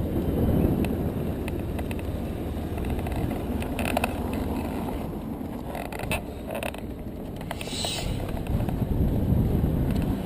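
BMW R1150RT boxer-twin motorcycle riding slowly, a steady low engine and wind rumble, with a few clicks and rattles about halfway through.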